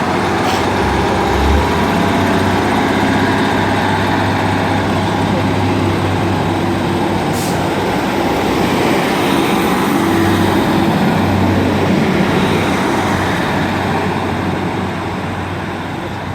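Two coupled diesel multiple units, a Class 150 Sprinter and a Class 156 Super Sprinter, pulling away from the platform with their underfloor diesel engines under power. The engine sound holds steady, then begins to fade near the end as the train draws away.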